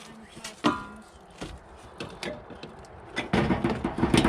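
Clicks and knocks of tools and car parts being handled, with a short metallic clink that rings briefly about two-thirds of a second in, and a louder run of knocking and rattling from about three seconds in.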